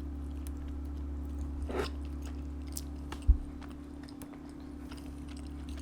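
Close-miked chewing with small wet mouth clicks, over a steady low hum, with one low thump about three seconds in.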